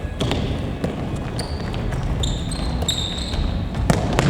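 Futsal ball thudding off feet and the gym floor, with a few short, high sneaker squeaks on the court in between, all echoing in the hall.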